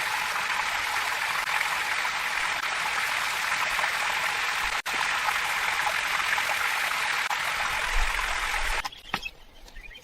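Steady rushing of running water, even and unbroken. It cuts off abruptly about nine seconds in, leaving a much quieter background with a few faint ticks.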